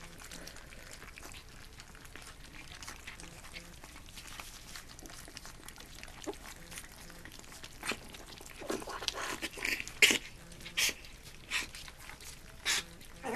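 Three-week-old whippet puppies eating mush from a shared dish: faint wet lapping and smacking, with a run of short, sharp smacks in the second half.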